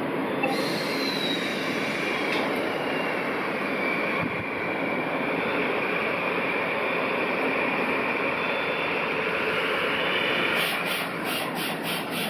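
Freight train rolling past on the rails with its wheels squealing: a thin, high tone that slides down in pitch over the first few seconds and then holds. Near the end comes a quick run of regular clicks, about three or four a second.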